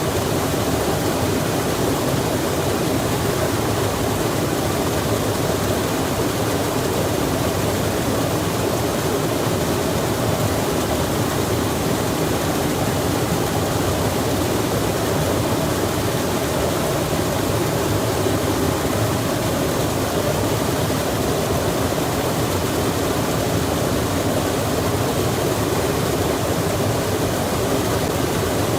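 A stream running with rain falling by it: a steady, even rush of water.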